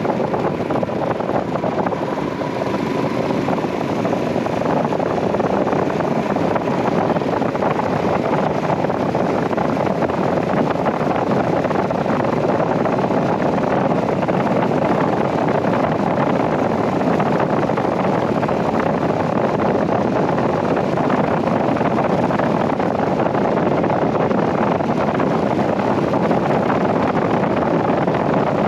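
Royal Enfield Himalayan 411's single-cylinder engine running steadily while riding, mixed with wind rushing over the microphone.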